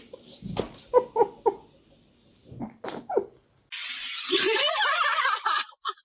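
A pet animal's voice: three short pitched calls in quick succession, then a louder wavering cry lasting about two seconds, starting a little past halfway.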